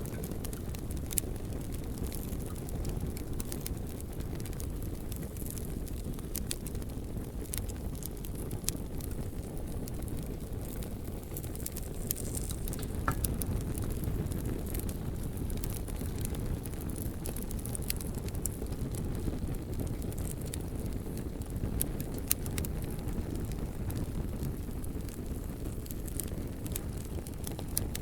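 Bonfire of logs burning, with a steady low rush of flames and many scattered sharp crackles and pops.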